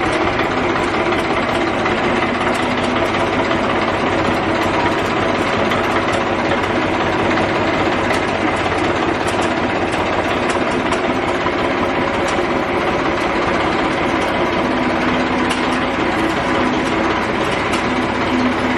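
A motor running steadily, with a continuous even drone that does not change in speed.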